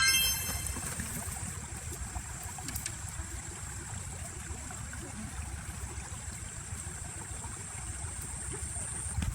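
A stream running, an even rushing of water with a steady thin high hiss above it. Right at the start comes a brief high-pitched squeak.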